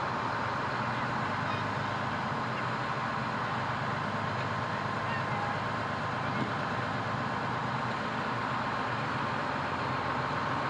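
Fire truck's engine running steadily as the truck drives, a constant low hum of engine tones under road noise.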